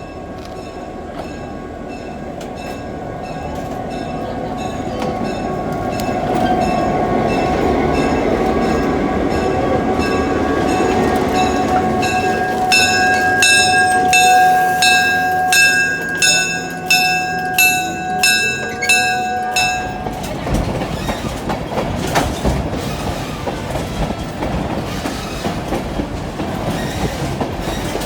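A train drawing near and passing close by. A locomotive bell rings steadily, growing louder, then stops about two-thirds of the way through. The cars' wheels then clatter over the rail joints as they roll past.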